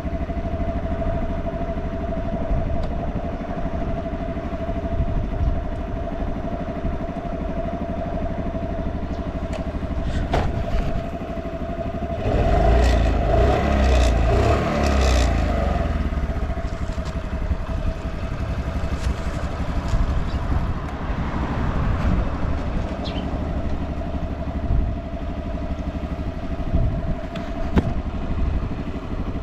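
Honda Motra AD05's small four-stroke single-cylinder engine running at idle, fairly quiet with no abnormal noises. About twelve seconds in there is a louder stretch of a few seconds.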